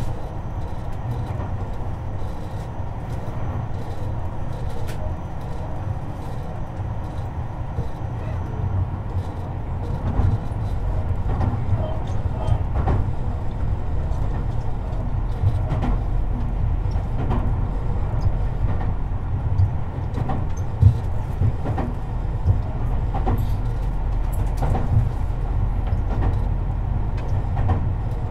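Tobu 50090-series electric train running between stations, heard from the car floor: a steady low rumble with scattered wheel-on-rail knocks, growing a little louder about ten seconds in.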